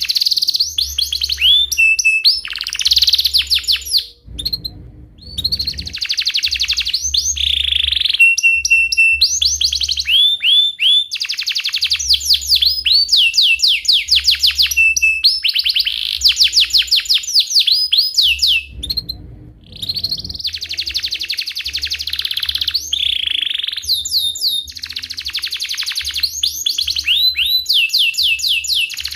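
Domestic canary singing a long, loud song of rapid trilled rolls and chirps, pausing briefly twice.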